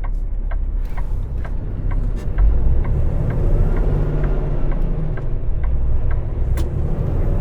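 Semi-truck's engine running with a low, steady rumble heard inside the cab, while short, even ticks repeat about two to three times a second, like a turn-signal flasher.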